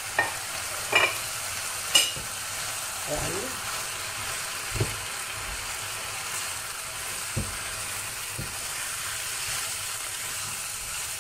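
Chicken strips, carrots and onion sizzling in a frying pan as they are stir-fried. The spatula clinks sharply against the pan three times in the first two seconds, then knocks a few times more dully while stirring.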